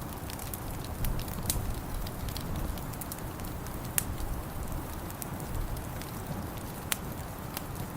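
Wood fire in a fireplace crackling, with scattered sharp pops over a steady low rumble; the loudest pops come about four and seven seconds in.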